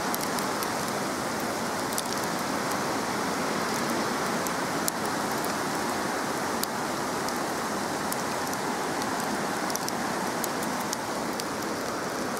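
Heavy downpour of rain mixed with small hailstones: a steady rushing hiss with scattered sharp ticks of drops and hail striking.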